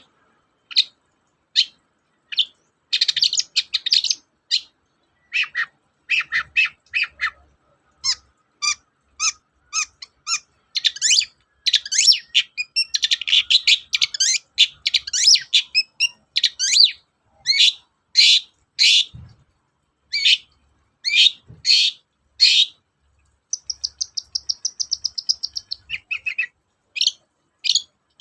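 Long-tailed shrike (cendet) singing energetically: a fast, varied run of short, harsh, scratchy notes and chirps. Near the end it breaks into a rapid, even trill.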